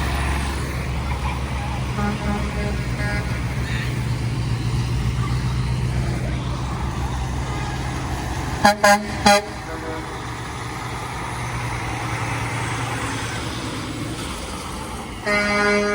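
Fire truck's engine running with a steady low rumble, three short horn toots a little past halfway, then a long air horn blast starting near the end.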